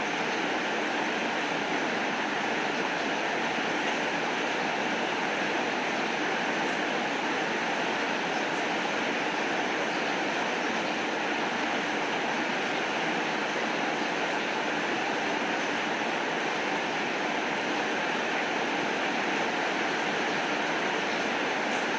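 Steady rainfall, an even continuous hiss with no change in strength.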